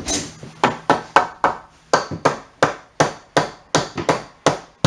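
Hammer knocking a load-bearing wooden framing piece into a tight press fit: a steady run of sharp, even blows, about three a second.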